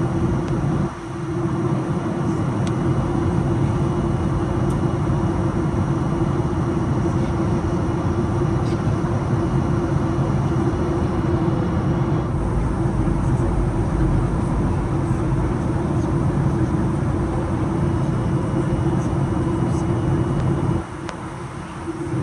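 Steady cabin noise inside a Boeing 737-800 in flight: the rush of airflow and the drone of its CFM56 engines, with a constant mid-pitched hum. The level dips briefly about a second in and again near the end.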